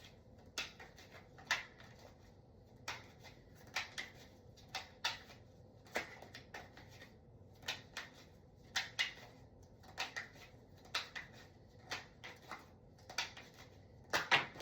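Tarot cards being handled and laid down: a string of short, irregular snaps and taps, about one or two a second.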